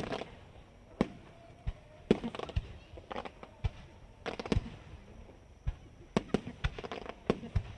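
Aerial fireworks shells bursting: a rapid, irregular string of sharp bangs, with thicker clusters of crackling about two seconds and four and a half seconds in.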